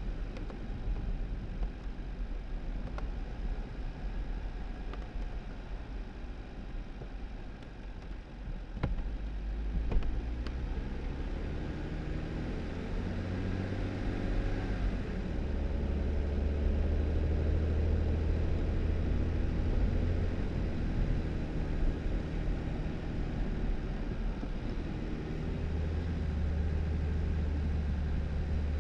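2018 Jeep Wrangler driving on a snowy road: a steady rumble of engine and tyres, with a few sharp knocks about nine to ten seconds in. The engine note then climbs as the Jeep speeds up and settles into a steady low drone.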